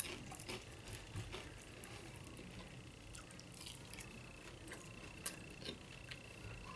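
Close-up eating sounds: a person chewing loaded Doritos nachos, with scattered small crunches, mouth clicks and wet squishes as the chips are picked up by hand and eaten. A faint steady high tone sits underneath from about halfway through.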